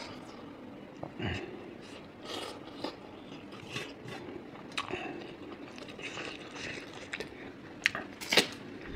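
Chewing a mouthful of food, with scattered short mouth clicks and smacks; a few sharper clicks come near the end.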